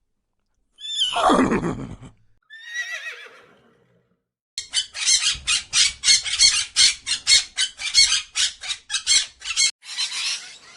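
A horse whinnying: one loud call that falls in pitch, followed by a softer second call. About four and a half seconds in, a rapid series of harsh squawking calls begins, about five a second, lasting some five seconds.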